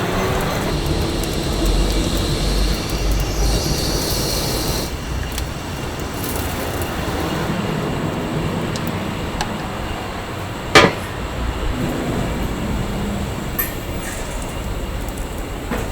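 Steady mechanical rumbling with light clattering, and one sharp clank just before the eleven-second mark.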